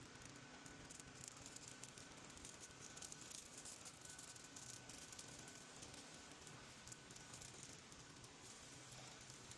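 Near silence: faint background hiss with light crackling.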